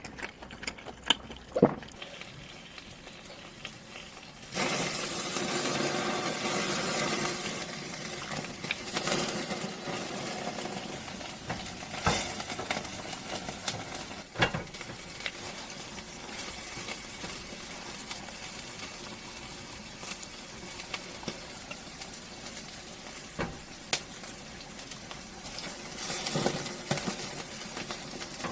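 Hot food sizzling with a steady hiss that sets in about four seconds in, with a few sharp clicks of utensils or dishes.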